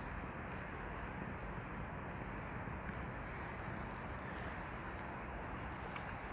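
Steady outdoor background hiss, even throughout, with a few faint short ticks.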